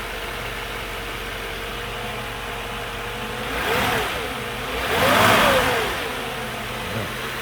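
Mercedes 500SL's M119 5.0-litre V8 idling steadily, blipped twice on the throttle about halfway through. Each time the revs rise and fall back to idle, and the second rev is bigger and longer. It runs healthy after sitting for over a month.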